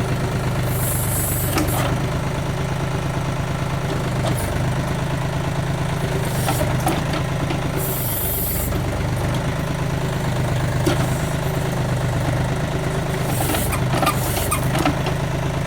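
Backhoe's diesel engine running steadily as the boom and bucket are worked, with several brief bursts of hiss.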